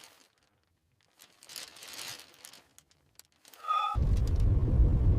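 A faint hiss swells and fades. A short tone follows, and then, about four seconds in, a loud deep rumble starts abruptly and keeps going.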